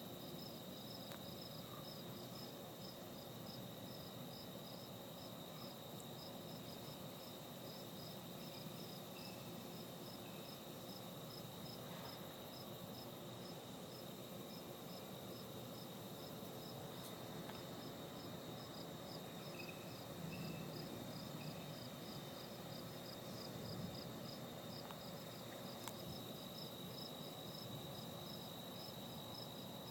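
Crickets chirping in a steady, even rhythm, a few chirps a second, over a continuous high insect trill.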